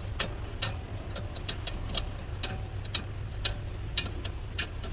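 Sharp ticks and clicks at uneven spacing, a few a second, from hand tools working the brake caliper bolts, over a low steady hum.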